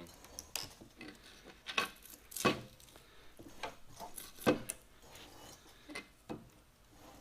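Irregular knocks and scrapes of metal and wood as a heavy metal planer is inched along on pipe rollers. The two loudest knocks come about two and a half and four and a half seconds in.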